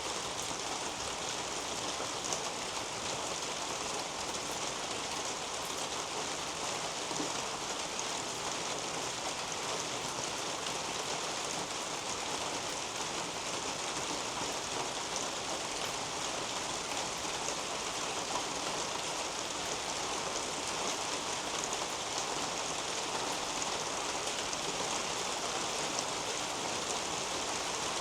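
Steady rain falling on a leafy garden canopy and the soil beneath it, a continuous even patter with the tick of individual drops.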